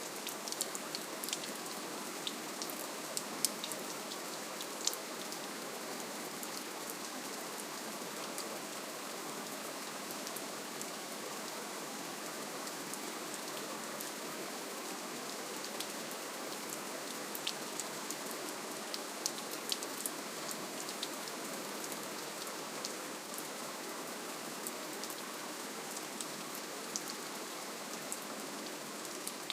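Soft, steady rainfall: an even hiss of rain with scattered individual drops ticking close by.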